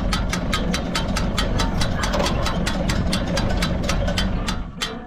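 Tractor engine running a hay baler, with an even, rapid clicking of about five strokes a second over the engine; the sound drops away near the end.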